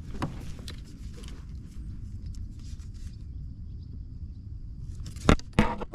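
Steady low rumble with a few faint small clicks, then two sharp knocks about a third of a second apart near the end.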